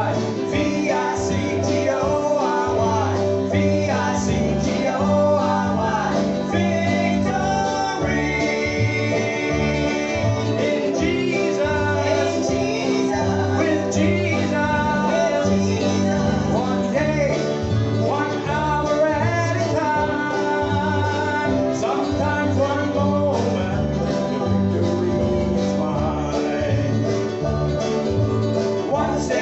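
Live gospel group playing an upbeat country-style song, with guitar, a steady stepping bass line and voices singing.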